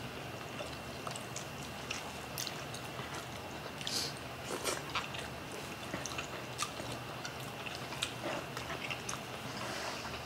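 Close-up eating sounds of people eating steamed fish and rice by hand: soft chewing, lip smacks and scattered short wet clicks. A faint steady high tone runs underneath.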